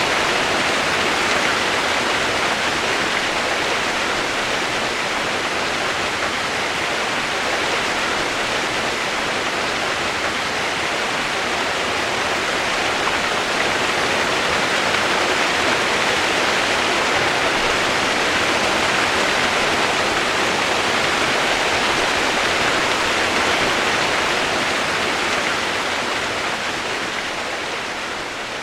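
Steady rushing water, an even, unbroken hiss with no separate events, dropping a little in level near the end.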